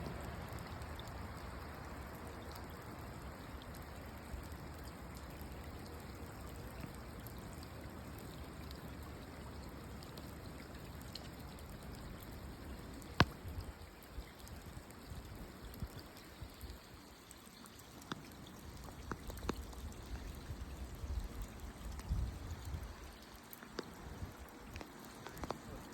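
Running water, a steady rush that thins out about halfway through into scattered drips and small splashes, typical of rain runoff on a flooded, waterlogged day.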